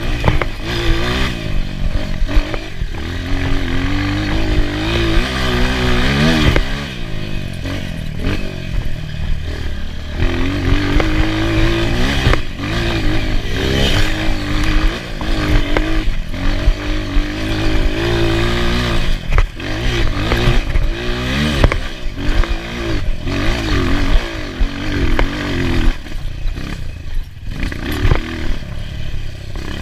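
Enduro motorcycle engine being ridden hard, its pitch rising and falling again and again as the throttle is opened and closed.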